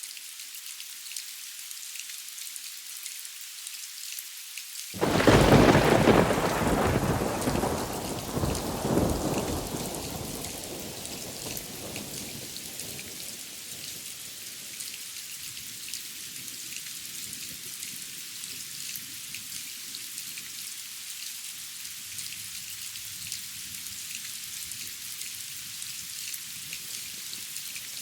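Steady rain hissing, with a loud thunderclap about five seconds in that rumbles on, swells again briefly and fades over several seconds before the rain goes on alone.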